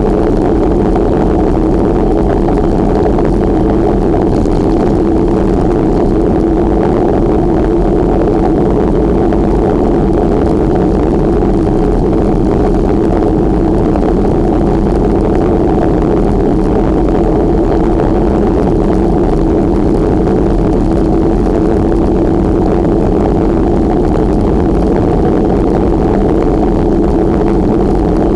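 Steady, loud rush of wind on the microphone while riding, unbroken throughout.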